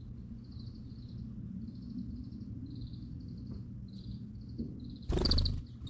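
A series of short, high, trilled chirps repeating about every half second, over a steady low hum. About five seconds in, a loud, brief sound with a strong tone cuts across them.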